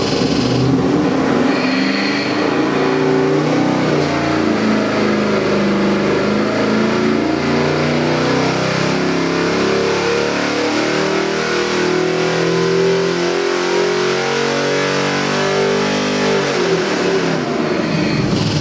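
Chevrolet LS3 6.2-litre V8 crate engine running hard on an engine dyno, its pitch shifting as it revs, then dropping off near the end.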